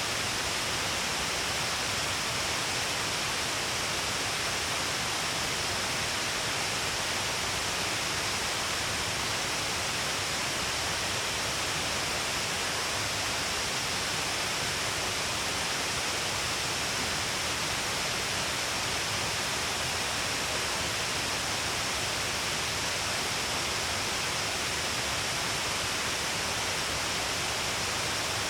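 Shiraito Falls, a wide curtain of many falling strands of water along a cliff, pouring with a steady, unbroken rushing hiss that holds at one level.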